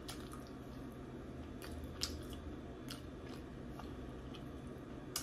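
A person chewing and biting lamb chop meat off the bone, close to the microphone, with a few short sharp mouth clicks, the loudest near the end, over a faint low hum.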